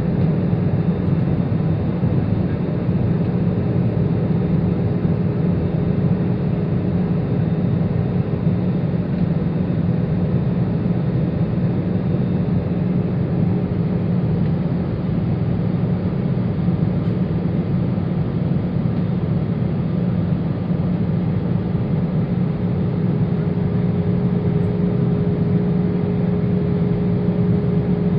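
Steady cabin noise inside an Airbus A320-200 descending on final approach: rushing airflow and the CFM56 engines at low thrust, a constant low rumble with a faint steady hum over it.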